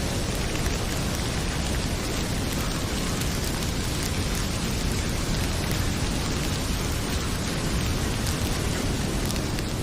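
Heavy rain pouring steadily, mixed with the crackle of a wood fire in a fireplace.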